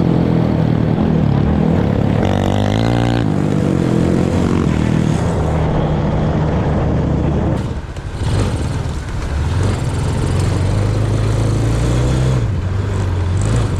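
Off-road vehicle engine running while riding, its pitch rising and falling with the throttle. There is a brief drop in level about eight seconds in.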